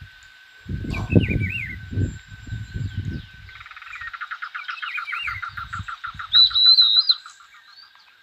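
Birds chirping and singing: short warbled chirps, then a fast run of repeated trilled notes, and a loud, high whistled phrase near the end. Bursts of low rumbling noise in the first few seconds, with a faint steady high tone underneath.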